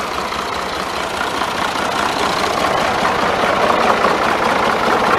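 1968 Ford 4500 backhoe's engine running steadily at idle, growing a little louder toward the end.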